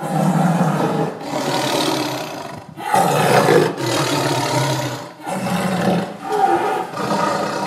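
Tiger roaring, a string of loud roars each lasting a second or so with short breaks between them.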